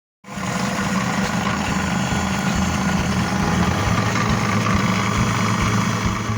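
Electric sugarcane juice machine running steadily: a constant motor hum under a busy mechanical noise, starting abruptly just after the beginning.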